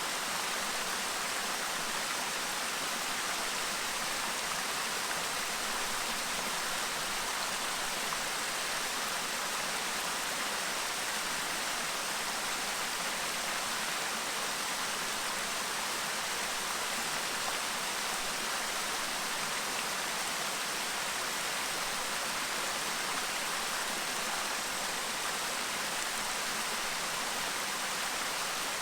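Clear stream babbling, a steady, even rush of flowing water with no breaks.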